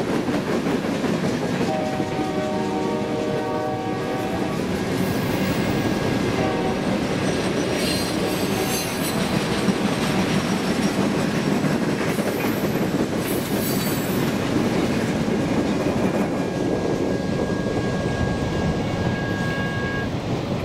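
Empty Union Pacific railroad-tie flatcars rolling past with a steady wheel-on-rail rumble and clatter. About two seconds in, a horn chord of several pitches sounds for roughly two seconds. A thin, high wheel squeal runs for the last few seconds.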